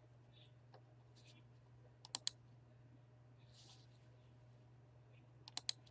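Quick clicks at a computer, three in a row about two seconds in and three more near the end, over a steady low electrical hum.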